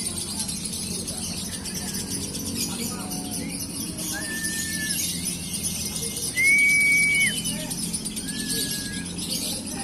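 Female lovebird singing a long, rapid, high-pitched chattering trill (the 'ngekek' that contest lovebirds are judged on). Several short, steady whistled notes cut through it, the loudest a little past halfway.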